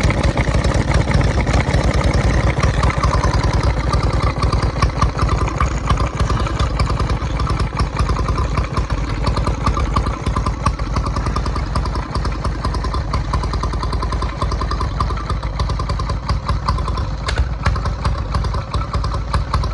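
1924 Petter M 1 1/2 HP oil engine running steadily, a continuous rapid clattering beat.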